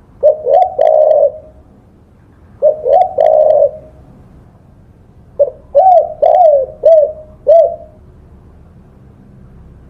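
Spotted dove cooing: three phrases of low, arching coo notes, the third longer with about five notes.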